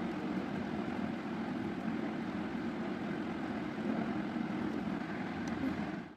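A steady, even noise with no distinct events, cutting off abruptly near the end.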